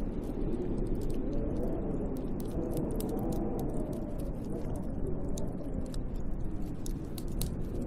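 Snowstorm wind blowing outside the cabin window, a steady rushing with a slowly wavering, moaning pitch, over many small sharp crackles.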